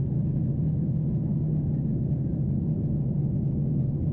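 Steady low drone inside the cabin of a Boeing 747-8 in flight: engine and airflow noise heard from a window seat, even and unchanging, with most of its weight low in pitch.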